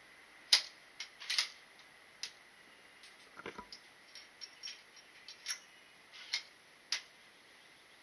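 Irregular sharp clicks and light taps, about a dozen over several seconds, the loudest about half a second in: a firearm being handled at the range.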